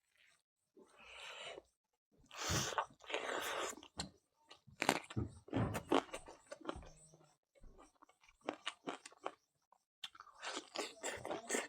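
A person chewing and crunching food close to the microphone: irregular bites and crunches with short wet mouth clicks in between, denser near the start and the end.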